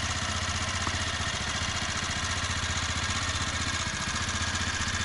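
AJP PR7's single-cylinder engine running steadily, with no revving or change in pitch.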